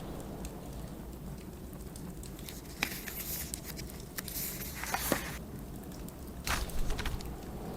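Steady low rumble of blizzard wind with a wood fire crackling, and a few short papery swishes of book pages being turned, about three seconds in, around five seconds and near the end.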